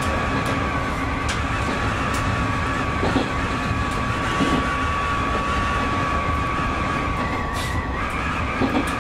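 Electric train running along the track, heard from the cab: steady wheel and running noise with a few sharp clicks from the rails. A steady high whine from the train's electric drive stops suddenly about eight seconds in.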